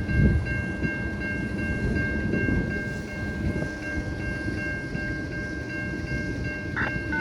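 A CN freight train rolling past, its cars and wheels making a steady low rumble, with a steady high-pitched tone running over it.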